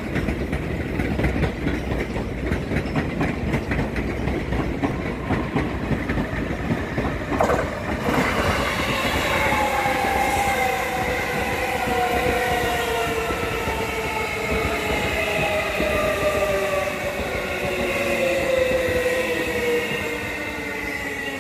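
Tokyo Metro 16000 series electric train running in on long welded rail, with a loud rushing rattle of wheels on rail as it comes closer. From about eight seconds in it passes close by, and its traction motors sound as several tones that fall slowly in pitch as the train slows into the station.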